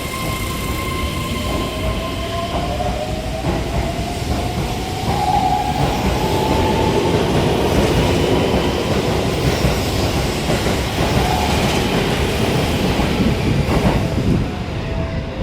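Keihan 13000-series electric train pulling away: the motor whine rises steadily in pitch over the first several seconds as it accelerates, then the rumble of wheels on rails grows louder as the cars run past.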